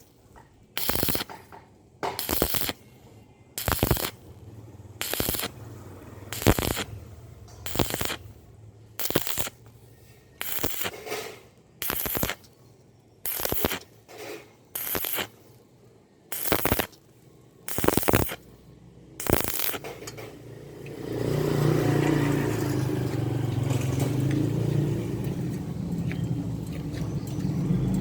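Stick welding on thin square steel tube in short stitches: the arc crackles and hisses in brief bursts, about one every second and a half, each broken off to keep the thin wall from burning through. From about 21 s in, a steady, unbroken run of lower-pitched noise replaces the bursts.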